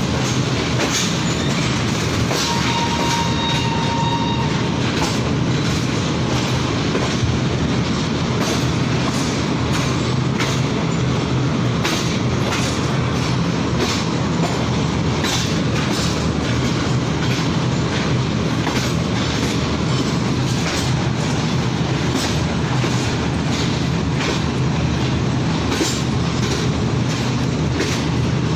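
Tezgam Express passenger train rolling slowly out of the station, heard from aboard a coach: a steady rumble with a low hum, and uneven clicks of the wheels passing over rail joints. A brief thin high tone sounds twice in the first few seconds.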